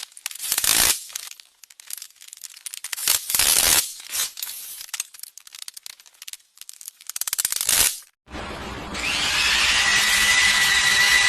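Several short, loud bursts of scraping or tearing, then about eight seconds in, a steady power tool starts running with a high whine.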